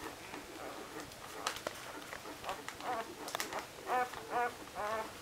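Week-old Labrador retriever puppies squeaking and whining, a run of short high calls in the second half, with a few small clicks.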